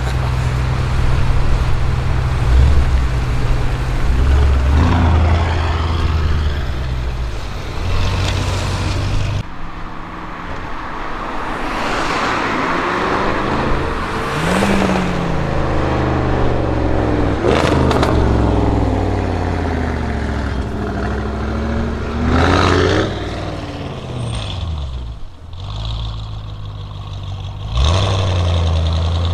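Audi RS6 Avant C7's twin-turbo V8 through a Milltek exhaust. It runs steadily low for the first third, then revs or accelerates several times, the pitch climbing and falling away each time. There is a single sharp exhaust crack just past the middle.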